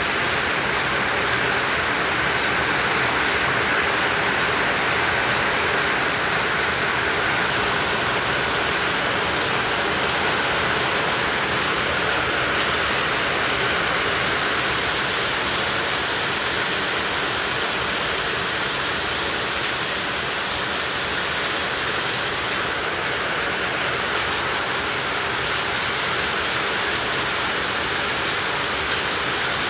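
Heavy tropical rain falling steadily, a dense even hiss of water with no separate drops standing out; it turns slightly softer about 22 seconds in.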